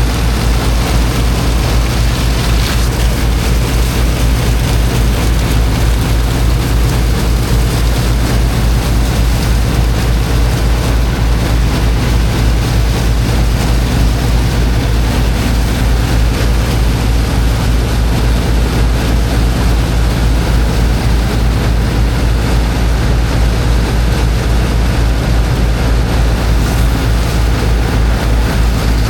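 Engine of a high-pressure water pump running steadily at constant speed, with a continuous rush of water jetting over its low, pulsing hum.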